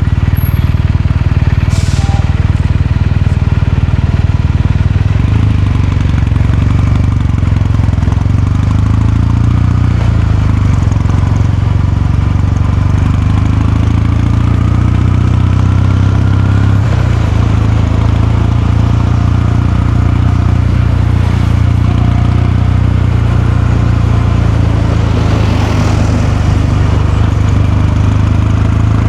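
Kawasaki Meguro K3's air-cooled parallel-twin engine and exhaust running steadily, with a change in its note about five seconds in and again around seventeen seconds.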